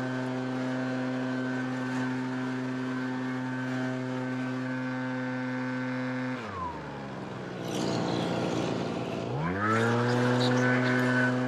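Gas backpack leaf blower's two-stroke engine running steady at full throttle. About six and a half seconds in the throttle is let off and the pitch falls; after about three seconds it revs back up to full.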